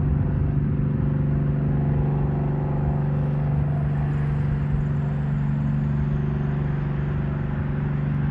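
Tugboat's diesel engine droning steadily as it pushes a barge, a constant low hum over a rough rumble.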